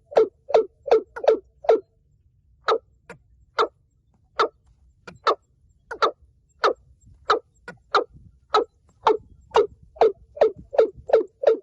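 Watercock calling: a series of short, repeated 'kok' notes, with a brief break near two seconds in. After the break the notes start slow and speed up steadily toward the end.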